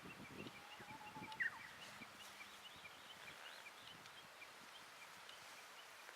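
Faint birdsong: small birds chirping in quick repeated notes. One louder, sliding call comes about a second and a half in.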